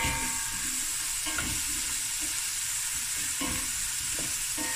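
Chopped onion, garlic and ginger frying in oil in a stainless steel pot, sizzling steadily while a wooden spoon stirs and scrapes across the pot's bottom. A short knock comes right at the start.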